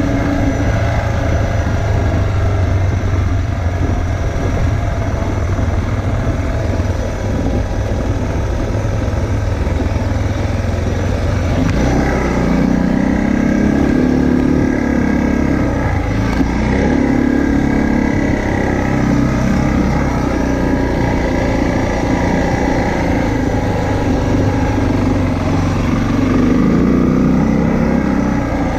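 Motorcycle engine running steadily while riding on the road; its note shifts about twelve seconds in.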